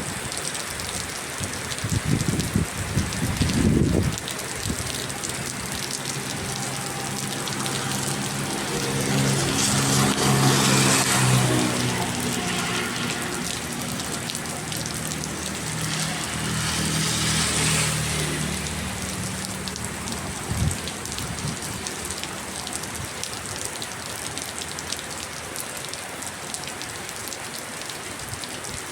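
Steady rain falling. There is a low rumble a couple of seconds in, and an engine hum rises and fades through the middle.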